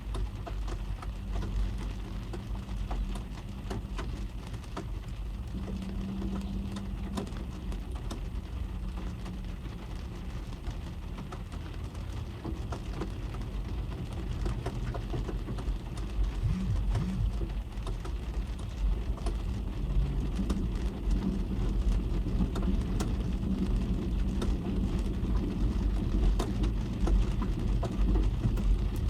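Rain drumming on a car's roof and windscreen, heard from inside the cabin: a steady patter of many separate drop taps over a low rumble, growing a little louder in the second half.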